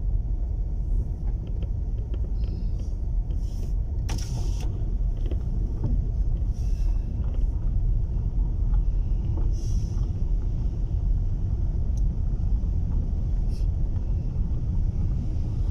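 Steady low rumble heard inside a car's cabin, with a few faint clicks and knocks; the clearest comes about four seconds in.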